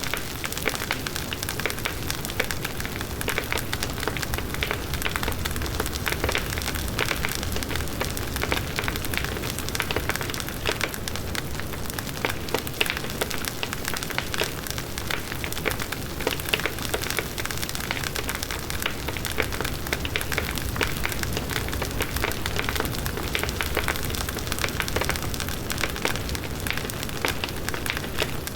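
Large wood bonfire burning steadily, with a constant rush of flames and dense, continuous crackling and popping of the burning wood.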